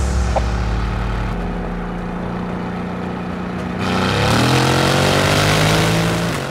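Mercedes-AMG GT R's twin-turbo V8 through an iPE catless exhaust, running steadily, then accelerating about four seconds in with a rising pitch and louder note, which drops away suddenly near the end.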